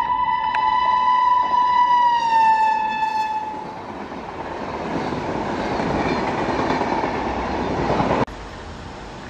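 Locomotive horn held in one long blast that drops in pitch as the train passes, then the rushing, rattling noise of passenger coaches going by close. Near the end it cuts off abruptly to a quieter steady background.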